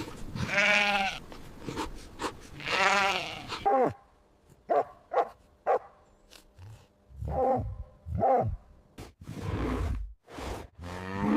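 Sheep bleating: two long, quavering bleats in the first few seconds, then a run of shorter bleats.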